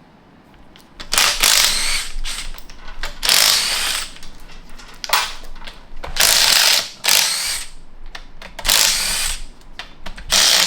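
Pneumatic hand tool running in short bursts of about a second, six or so times, spinning bolts out of a transmission case.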